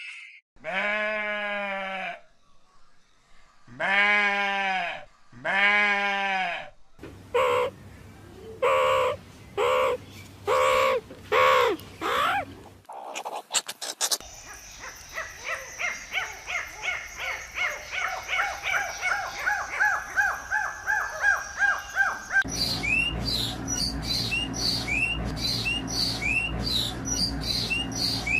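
Animal calls, mostly birds, in separate spliced stretches. First come three drawn-out calls, then a run of shorter calls about one a second, then rapid chirping calls about two a second.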